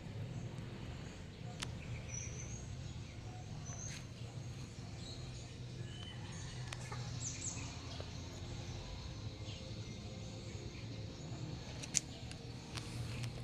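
Faint short bird chirps over a steady low hum, with a few light clicks, one sharper click near the end.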